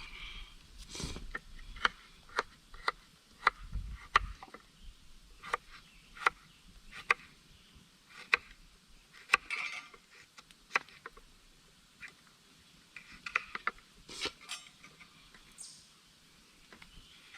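A series of sharp clicks and knocks at uneven spacing, roughly one or two a second.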